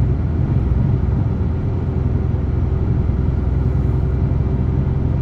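DAF truck's diesel engine running steadily under way, a low, even drone with road noise.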